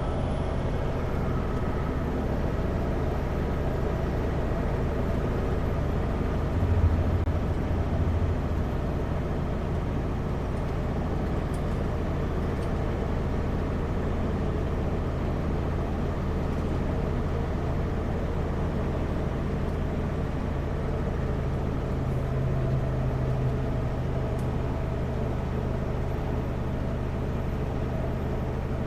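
Kenworth W900L semi truck's diesel engine droning steadily at highway speed, with tyre and road noise.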